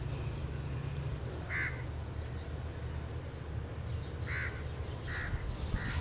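A bird calling four times in short harsh calls, over a steady low rumble.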